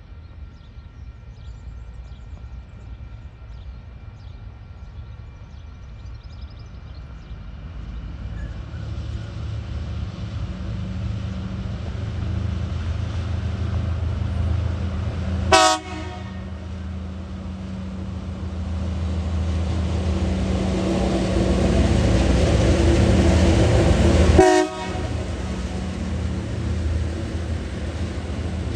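TasRail TR-class diesel locomotives approaching, their engine drone growing steadily louder, with two short horn toots: one about halfway through and a second about nine seconds later as the drone peaks.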